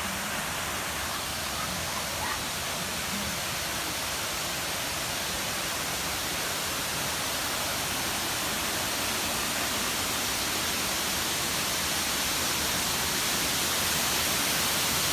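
Waterfall rushing, a steady even roar that grows slowly louder.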